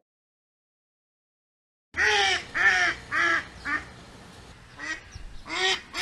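Duck quacking: a quick run of four quacks, a short pause, then more quacks.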